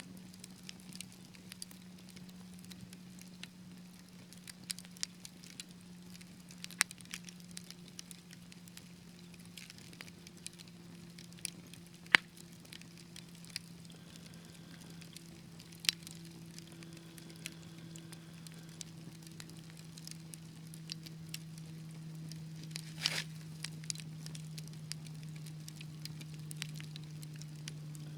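Fireplace wood fire crackling, with sharp pops at irregular intervals and a few much louder snaps near the middle. A low steady hum runs underneath, slowly sinking in pitch.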